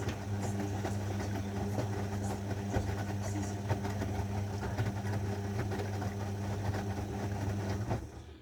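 Zanussi washing machine's motor turning the drum with a steady hum and rattling of the tumbling load, stopping abruptly about eight seconds in.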